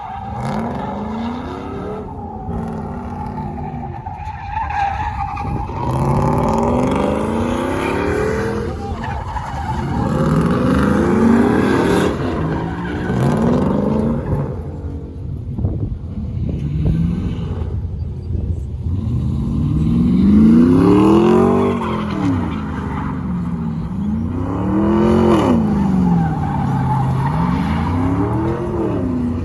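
A vehicle engine revving up and down over and over, each rev rising and falling in pitch, with tyres squealing.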